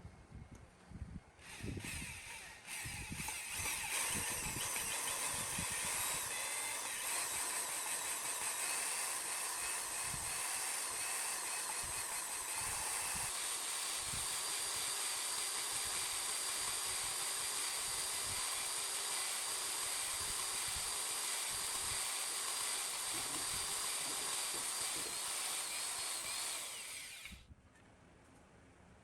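A hand-held power tool running steadily, starting about a second and a half in and stopping abruptly near the end.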